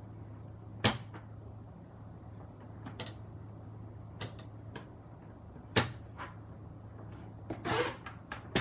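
Sharp clicks and knocks of craft tools and paper being handled on a desk, about five of them spread out, with a brief scraping rustle near the end, over a low steady hum.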